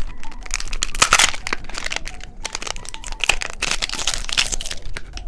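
Crinkly candy packaging being unwrapped and crushed by hand, a run of sharp crackles and rustles.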